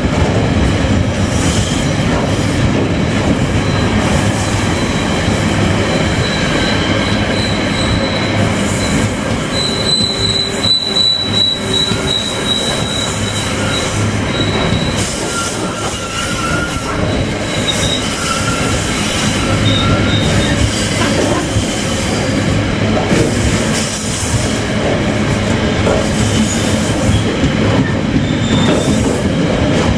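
A freight train's container wagons loaded with waste containers rolling past close by, a steady rumble and rattle of wheels on rail. A thin, high wheel squeal rides over it, loudest about a third of the way in.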